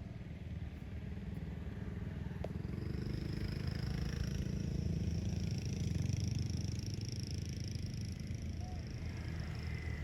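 A motor engine running with a low, fast-pulsing rumble that grows louder toward the middle and eases off a little near the end.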